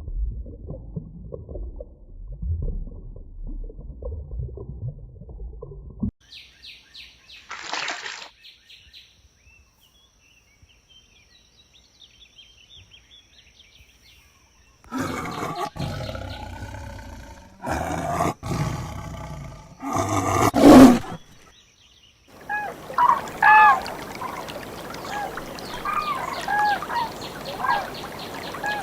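Farm animals calling in a run of separate clips. Loud pitched calls come about halfway through, and in the last part repeated short chirps sound over a steady hiss.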